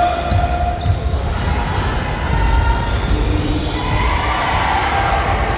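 Basketball bouncing on a gym floor during play, a run of irregular low thumps, with voices in the hall behind it.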